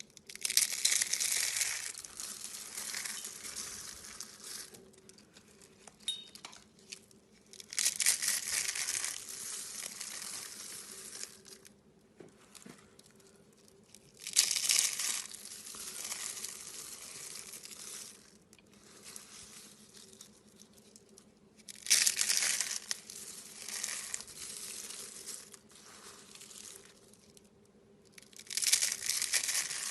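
Slime being squeezed and pressed by hand, giving crackling, crinkling sounds. There are five bursts, each starting sharply and fading over a few seconds, about seven seconds apart.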